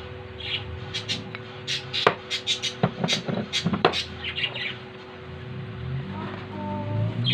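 A quick run of light clicks and taps from metal parts being handled, then a bird squawking near the end.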